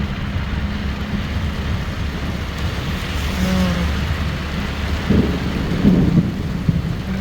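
Rain falling steadily as an even hiss over a low rumble, with a few louder irregular hits about five to six seconds in.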